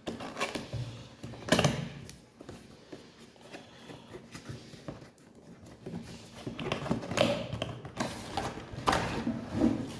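A cardboard box being opened by hand: its taped seal is pulled off and the flaps are handled, in irregular scrapes, rustles and knocks.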